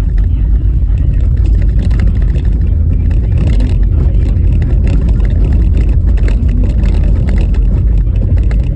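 A car driving over a rough, bumpy snow-covered road: a loud, steady low rumble from the tyres and road, with frequent small knocks and rattles as it jolts over the uneven surface.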